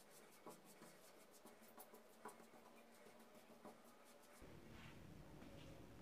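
Faint, quick scratching strokes, about five a second, with a few light clicks among them; a low hum comes in near the end.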